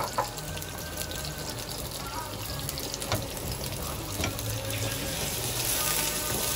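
Onions frying in hot oil in a pan: a steady sizzling hiss that grows louder near the end, with a few light clicks.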